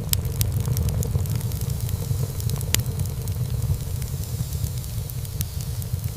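Wood fire burning in a fireplace: many small sharp crackles and pops over a steady low rumble of flames, with one louder pop a little under three seconds in.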